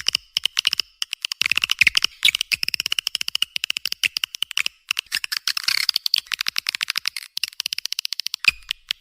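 Swiftlet lure call recording: rapid, continuous twittering chirps and clicks of swiftlets, high and thin with no low end, played to call swiftlets into a nesting house.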